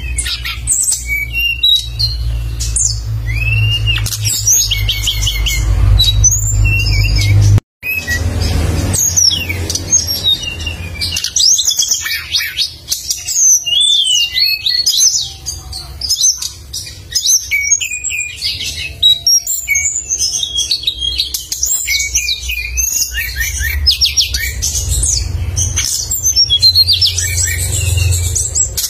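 A songbird singing loudly and continuously, a dense run of quick, sharp chirps and whistled notes, with a steady low hum underneath. The sound cuts out completely for a moment about 8 seconds in.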